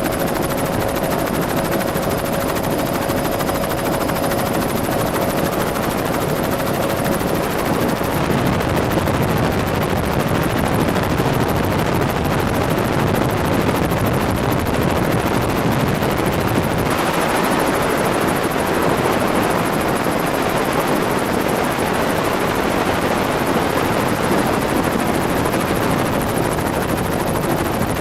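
Helicopter rotor and engine noise heard from aboard in flight: a loud, steady din, with a faint steady tone in the first few seconds and a change in its colour about seventeen seconds in.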